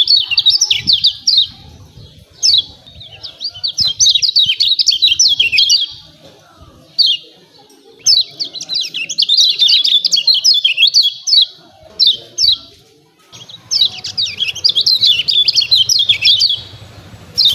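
Kecial kuning (a white-eye) giving its rapid 'ciak ciak' chattering call: bouts of fast, high, sharply sweeping chirps lasting one to three seconds, repeated about five times with short pauses between.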